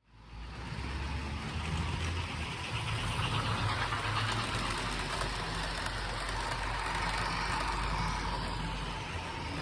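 Creality Ender 5 Pro 3D printer at work: a steady whir of cooling fans under low stepper-motor hums that shift pitch in short steps as the print head moves.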